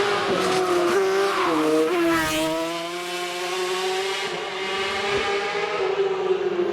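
Hillclimb race car's engine running hard at high revs, with a quick gear change about two seconds in, then a steady note that drifts slowly lower.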